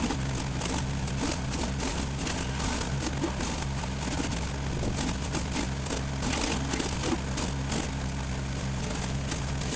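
A small engine running steadily at a low, even speed, with crackling noises over it.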